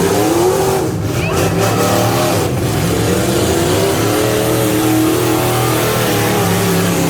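Half-ton pickup truck engine running hard at high revs, its pitch climbing near the start, dipping, then climbing again about halfway through.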